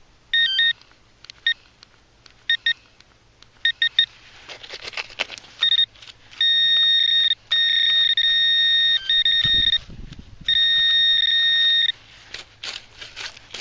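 Metal detector sounding on a buried target: short fixed-pitch beeps, then from about six seconds in a long steady tone held for a few seconds at a time with short breaks, mixed with scraping and clicking of digging in soil. The target is a flat metal button.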